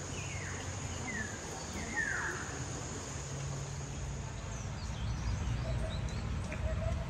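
Birds calling: a few short notes sliding down in pitch in the first two seconds, then fainter, higher chirps. Underneath runs a steady high insect drone that fades about halfway, and a low background rumble.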